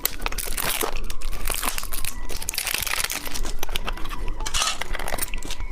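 Candy wrapper being torn open and crinkled by hand, a dense crackling with sharp clicks.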